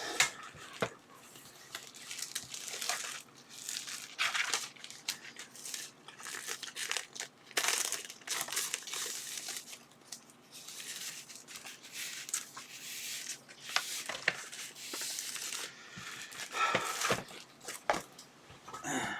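Packaging being handled on a workbench: irregular crinkling and rustling, with scattered light clicks and knocks.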